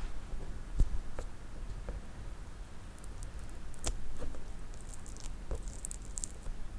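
Slow, sparse fingernail tapping on small objects close to the microphone: single clicks a second or more apart, with a patch of faint, crisp high ticks between about three and six seconds in.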